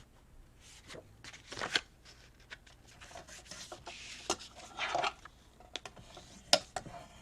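Paper being handled on a craft table: soft rustles and scattered light taps and clicks, with a brief scraping rustle about a second and a half in and another about five seconds in.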